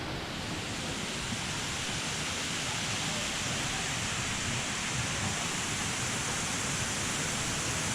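Steady rushing noise, even and unbroken, growing slightly louder over the stretch.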